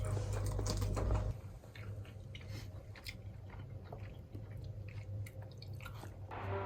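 A person chewing and biting food, with scattered small crisp clicks. A low steady hum stops about a second in, and music begins near the end.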